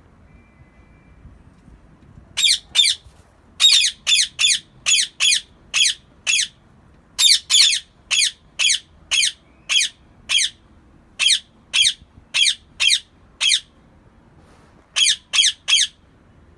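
Rose-ringed (Indian ringneck) parakeet giving a long series of short, harsh squawks, about two a second. The calls start about two seconds in and pause briefly near the end.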